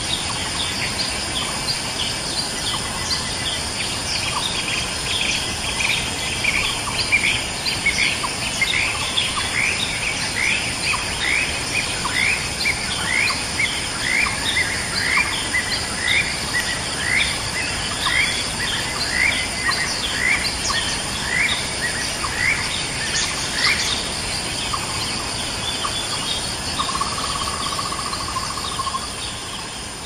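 A bird calling a long run of short, rising notes, roughly one every two-thirds of a second, over a steady high drone of insects.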